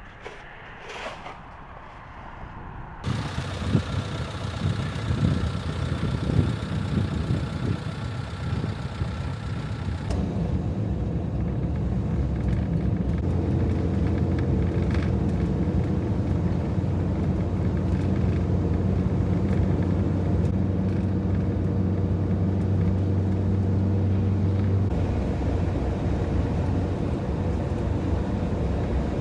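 Fiat Ducato van on the road: a rumbling noise from about three seconds in, then from about ten seconds in a steady drone of engine and road noise.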